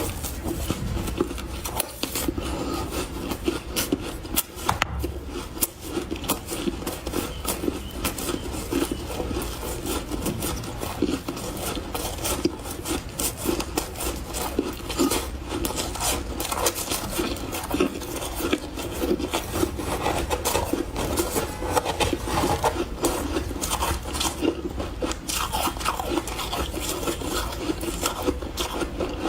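Powdery refrozen ice crunching and rubbing in a steady, dense stream of soft scratchy crunches.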